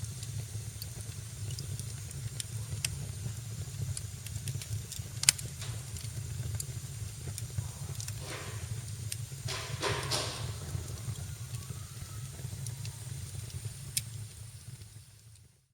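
Fireplace fire crackling, with scattered pops and one sharp pop about five seconds in, over a steady low rumble. Around eight to ten seconds in there are two short spells of hissing. The sound drops away briefly right at the end.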